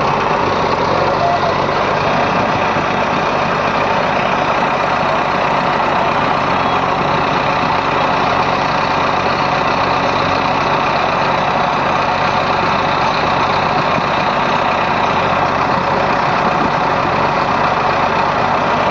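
Heavy diesel engine running steadily at a constant speed, with no revving or pauses.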